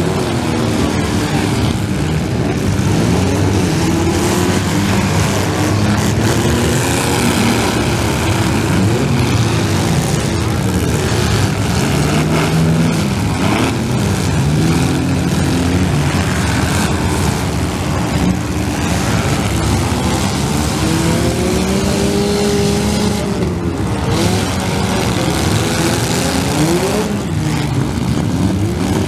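Several compact demolition-derby cars' engines revving up and down together, their pitches rising and falling over one another as the cars push and ram. A few thuds of collisions are mixed in.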